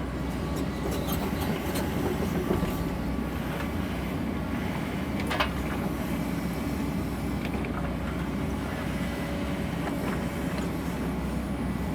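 Sany excavator's diesel engine running steadily, with a few light clicks and one sharp knock about five seconds in.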